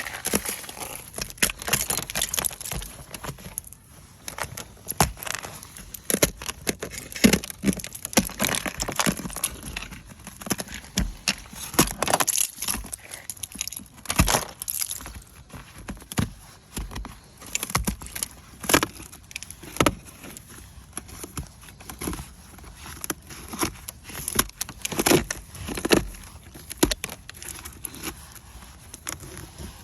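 Ice being scraped and chipped off a truck: a long run of irregular scraping and cracking strokes, loud and close.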